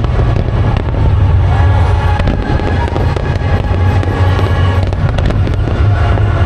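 Aerial fireworks display going off in a continuous barrage of low booms and dense crackling, with music playing along.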